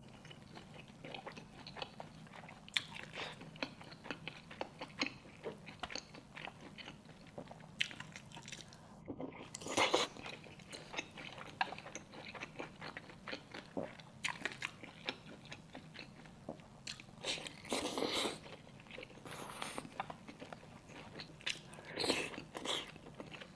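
A person eating close to the microphone: irregular biting and chewing sounds with crunchy, clicky bites, louder in a few bursts, over a steady low hum.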